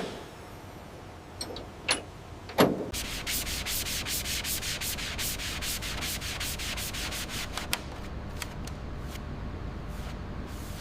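A few sharp knocks, then fast, even scraping strokes like hand sanding, fading near the end.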